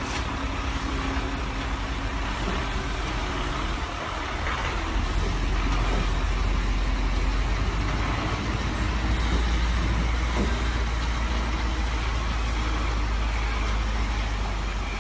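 A large vehicle's engine running steadily, a deep low drone under a broad hiss of noise.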